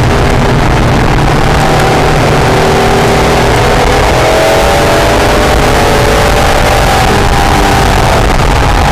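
Acura NSX's mid-mounted V6 engine pulling hard on track under a heavy roar of wind and road noise, its pitch climbing over a couple of seconds and then easing off near the end.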